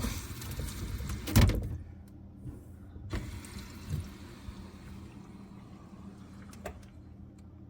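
Water hissing through the supply lines as the under-sink angle stop valves are opened to pressurize the newly installed water filter, with a knock about a second and a half in. The hiss drops to a fainter flow after about three seconds.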